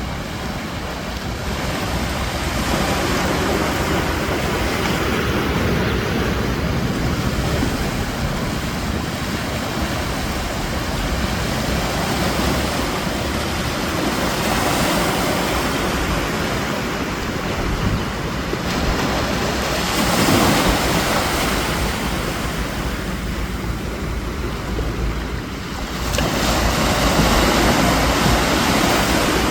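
Arabian Sea surf breaking and washing in, a continuous rush that swells several times as waves come in, with wind rumbling on the microphone.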